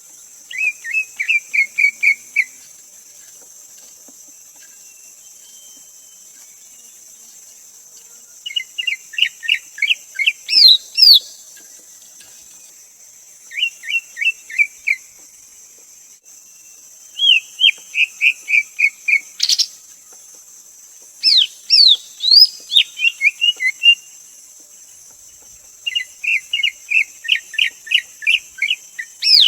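Greater green leafbird singing: six bouts of fast, repeated whistled notes, each bout one to three seconds long with pauses between, over a steady high hiss.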